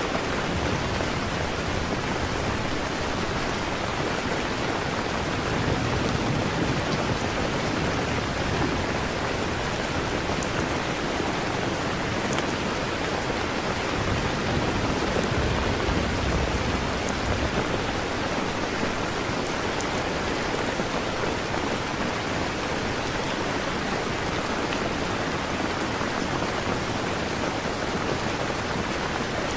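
Steady, even rain falling, a rain-sound ambience.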